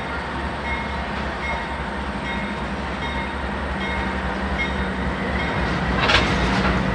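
CSX GE diesel-electric freight locomotives rolling slowly past at close range: a steady low engine rumble with the noise of wheels on rail. A short burst of hiss comes about six seconds in.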